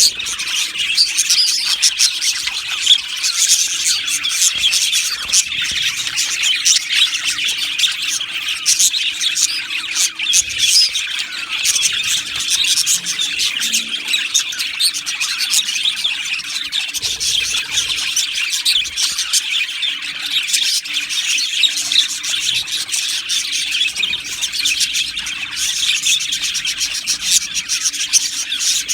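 A colony of budgerigars chirping, warbling and chattering continuously, many birds calling at once in a dense, unbroken chorus.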